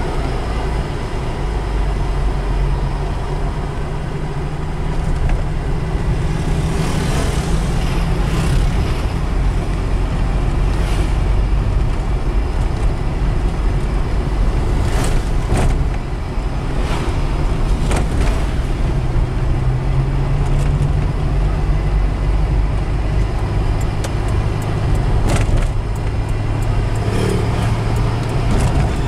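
Mitsubishi Kuda's 1600 cc petrol engine, fitted with a Toyota Kijang 7K carburettor, running while driving in town traffic, heard from inside the cabin with road noise. The engine note shifts in pitch a few times as speed changes, and there are occasional short knocks.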